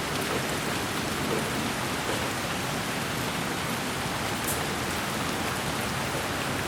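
Steady, even white-noise hiss for lulling a baby to sleep, with a few faint ticks in the high end.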